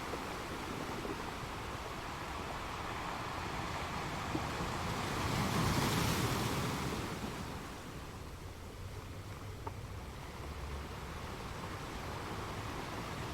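Sea waves breaking against rocks, one wave swelling to a crash about six seconds in and then washing back, under a steady surf wash with some wind.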